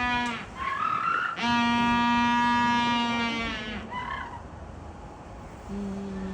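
Penguin calling: long, steady held notes, one ending just after the start, a second lasting about two and a half seconds, and a third, lower call beginning near the end.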